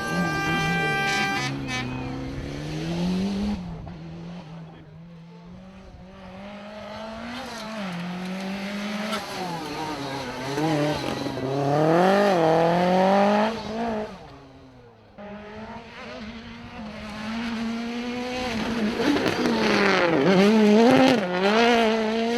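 Rally car engines revving hard, their pitch climbing and dropping again and again through gear changes and lifts, with tyre squeal. A steady held tone stops about one and a half seconds in, and the sound breaks off abruptly about fifteen seconds in before the engine noise resumes.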